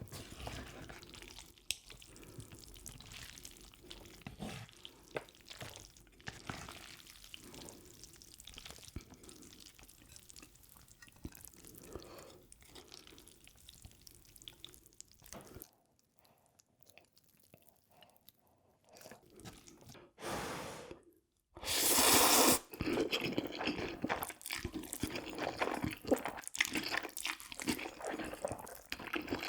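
Wet mixing sounds: utensils clicking and scraping against a dish while saucy stir-fried Buldak noodles are stirred, with drips and squishing. About two-thirds of the way through, a loud burst of rushing noise is followed by denser clatter.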